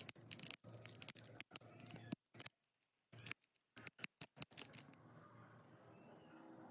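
A quick, irregular run of sharp clicks and taps from hand work with tools and metal parts, thinning out after about four seconds into a steadier low noise.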